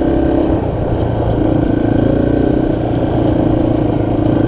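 Dirt bike engine running at a steady, even speed while being ridden, with small dips in throttle.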